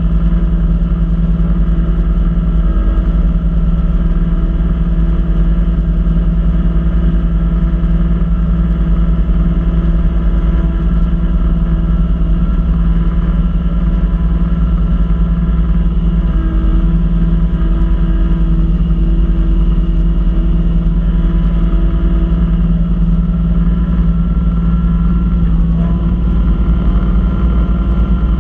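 Kubota B2650 compact tractor's three-cylinder diesel running steadily under load, with a front-mounted snow blower. The engine note shifts slightly a few times but never stops.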